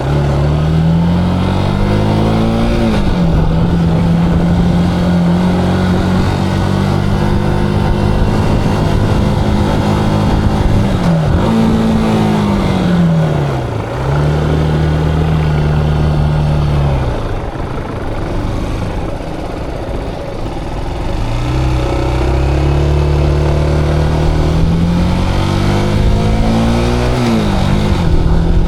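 Zontes cruiser motorcycle engine under way: it revs up and shifts gear about three seconds in, then holds a steady pitch. Near the middle the revs rise briefly and then fall away as it slows, and it runs quieter for a few seconds. It then accelerates again with rising revs and shifts once more near the end.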